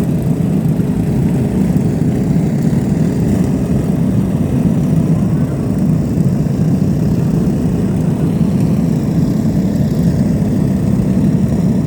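Many lawn mower engines running together in a loud, steady drone.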